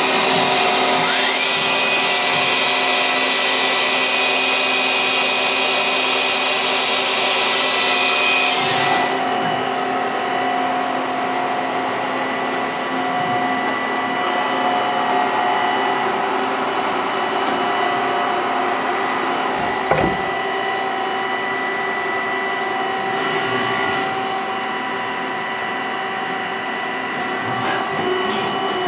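Star SV12 CNC Swiss-type automatic lathe running, with a steady mix of motor and spindle whines. A loud hiss cuts off suddenly about a third of the way in, a brief rising whine comes near the start, and a single sharp knock sounds about two-thirds through.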